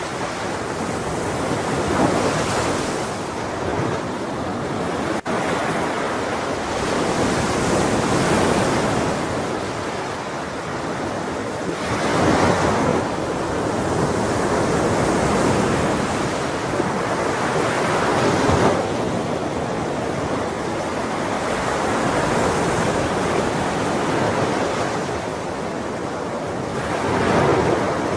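Ocean waves washing onto a shore: a steady surf hiss with louder swells of breaking water every several seconds.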